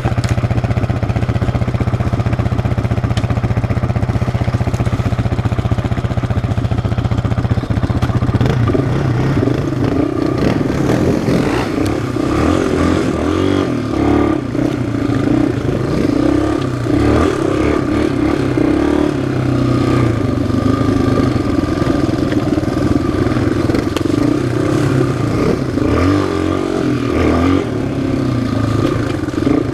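Single-cylinder four-stroke engine of a trail ATV or dirt bike running at a steady low speed. From about a third of the way in, the throttle is worked on and off, so the revs rise and fall repeatedly with some rattling.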